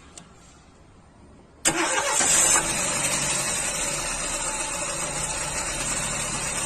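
A vehicle engine running, after a faint hiss; the engine noise starts abruptly about two seconds in and stays steady.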